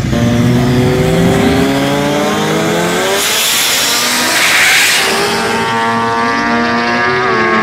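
Turbocharged 1JZ straight-six in a Commodore ute revving hard through a drag-strip burnout, with tyre noise loudest about four to five seconds in. The revs drop off and build again near the end.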